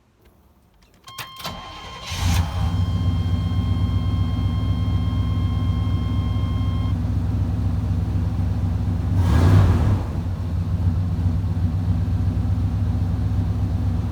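Chevrolet 350 small-block V8 in a Suburban starting and idling steadily, with a steady electronic tone sounding for the first several seconds. The engine cranks and catches about two seconds in, then runs evenly, with a brief rev a little past the middle.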